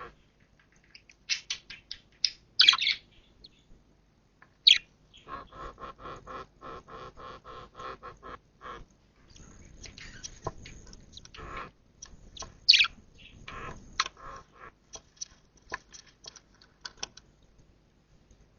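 Budgerigars in a nest chirping, with single sharp chirps and several long runs of quick, scratchy repeated notes separated by short pauses.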